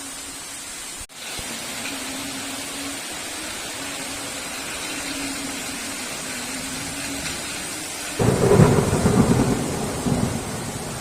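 Heavy rain falling steadily, with a sudden loud clap of thunder about eight seconds in that rumbles and fades over about two seconds. A momentary dropout in the sound comes about a second in.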